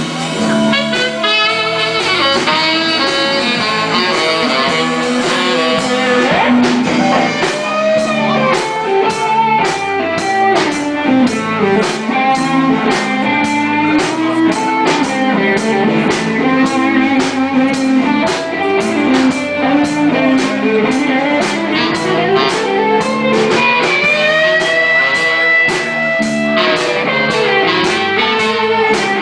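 Live blues band playing an instrumental passage, led by electric guitar. A steady drum beat joins about six seconds in, and a long held guitar note comes near the end.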